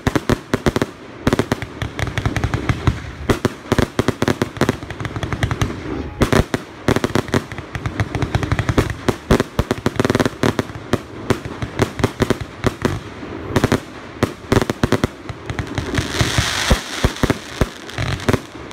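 Fireworks display: a rapid, continuous barrage of bangs and crackles, swelling into a denser crackling hiss about sixteen seconds in.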